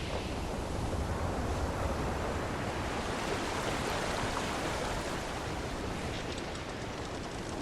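Sea waves washing against a wooden ship's hull, a continuous wash that swells and eases, with a few faint clicks near the end.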